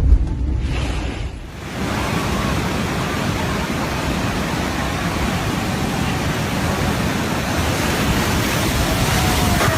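A low rumble fades out in the first second and a half, then a steady, loud rush of stormy sea and wind takes over.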